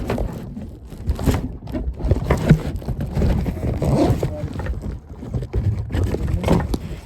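Wind rumbling unevenly on the microphone aboard a boat, with scattered short knocks.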